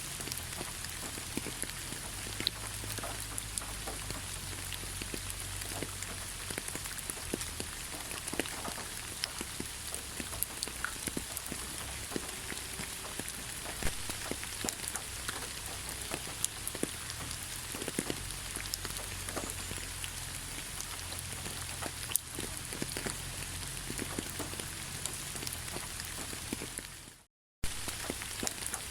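Steady rain falling, with individual raindrops clicking and pattering on a surface throughout. The sound cuts out completely for a split second near the end, then resumes.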